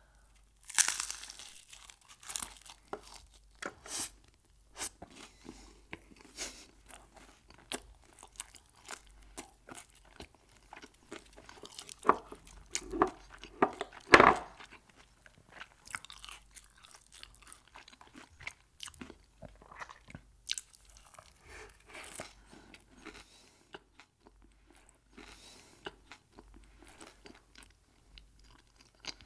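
A person eating crunchy Mexican food close to the microphone: irregular crunching bites and chewing, with the loudest crunches about a second in and about fourteen seconds in.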